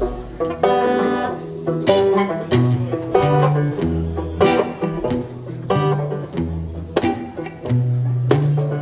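Banjo picking a bluesy instrumental intro of quick plucked notes over a low bass line.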